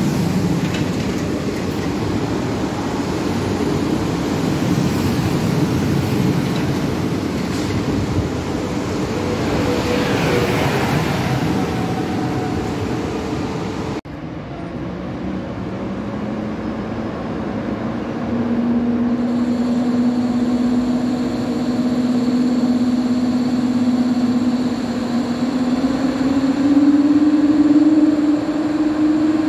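Electric passenger trains at a station platform. First a train rolls past close by with a steady rumble of wheels on the rails. After a cut, an electric multiple unit runs in with a steady whine that rises in pitch near the end.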